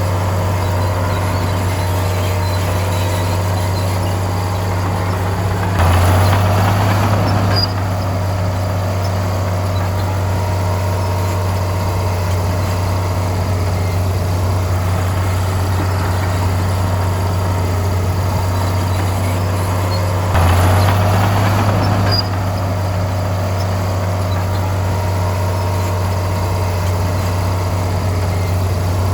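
Bulldozer's diesel engine running steadily, rising twice for a second or two under load, about six seconds in and again about twenty seconds in.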